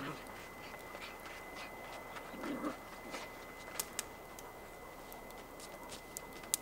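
Wood campfire crackling, with scattered sharp pops, several close together around four seconds in and one just before the end. A short, soft, lower sound about two and a half seconds in.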